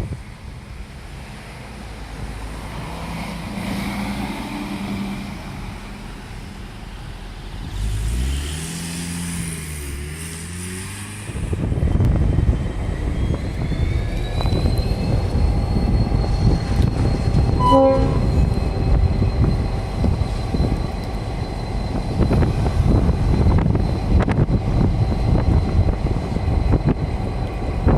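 Train passing close by. A rumble builds over several seconds, then, about eleven seconds in, the loud, dense clatter of wheels on rail starts and carries on, with a steady high whine over it. A short pitched tone sounds about two-thirds of the way through.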